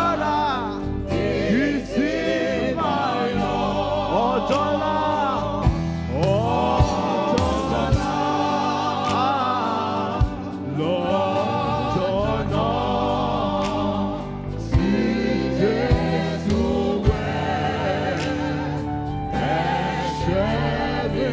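Live gospel worship music: voices singing long, wavering notes with vibrato over a steady keyboard-and-bass accompaniment, with a few drum hits.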